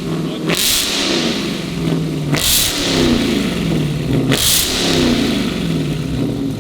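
Supercharged 6.2-litre Hemi V8 of a Dodge Hellcat Redeye Jailbreak with a loud aftermarket exhaust, revved hard three times about two seconds apart, each blip dropping back toward idle.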